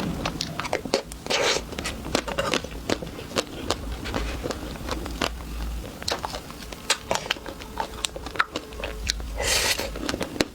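Close-miked eating of chocolate treats: crisp crunching bites and chewing, with many sharp crackling clicks throughout.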